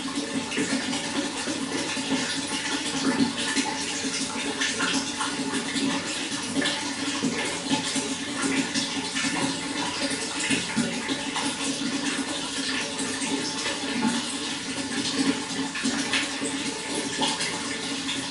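Running water flowing steadily, with constant small splashes and gurgles.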